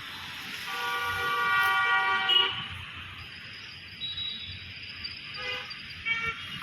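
A vehicle horn sounds one long steady blast of about a second and a half, then two short toots near the end.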